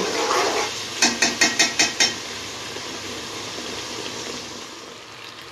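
Blended onion paste frying in hot oil in a cooking pot. A spoon knocks and scrapes against the pot about seven times in quick succession, then a steady sizzling hiss slowly fades.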